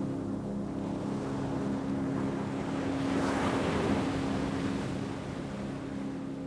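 Ocean wave swelling and washing in, loudest about three and a half seconds in, over a steady low droning tone of ambient music.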